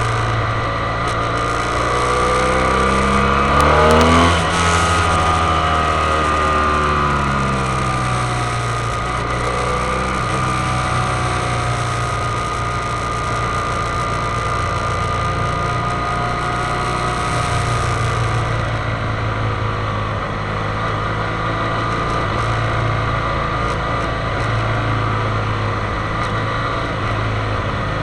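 Motorcycle engine running, its pitch rising and falling with the throttle in the first several seconds and loudest about four seconds in, then holding a steadier note.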